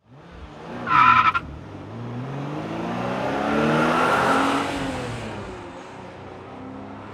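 A car: a short, loud high squeal about a second in, then the engine's note rising and falling as it passes, swelling to a peak about four seconds in and fading away.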